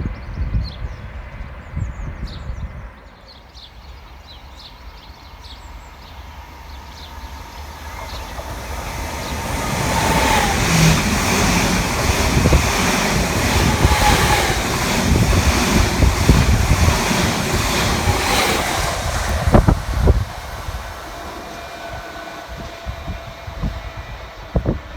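A train passes at speed: its noise swells over several seconds, stays loud for about nine seconds with wheels clattering over the rails, then falls away sharply. Wind buffets the microphone.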